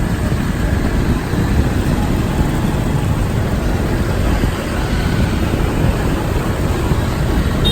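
Steady motorcycle and street-traffic noise heard from a moving motorbike, a dense rumble heaviest in the low end.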